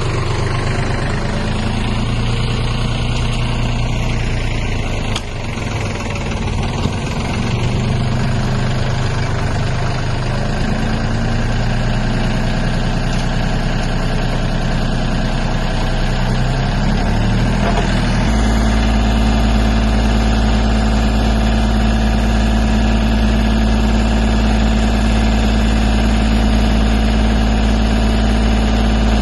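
Mahindra tractor's diesel engine running, its speed rising and falling in steps for the first two-thirds, then settling abruptly into a steady, deeper idle-like note about eighteen seconds in.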